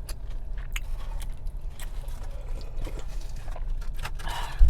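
Small eating-and-handling sounds: scattered light clicks and scrapes of chopsticks and dishware, with a louder rustle and a sharp thump near the end, over a steady low hum in the car cabin.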